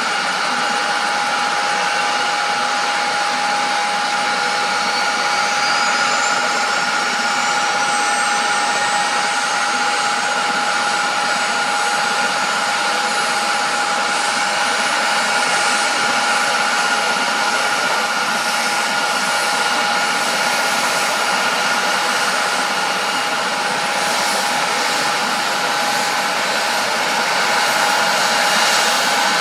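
Emergency helicopter's turbine engine running on the ground: a steady high whine over a loud hiss, with a fainter tone rising in pitch a few seconds in.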